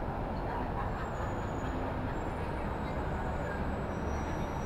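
Steady low rumble of New York City street ambience, mostly vehicle noise, with a few faint high thin tones drifting over it.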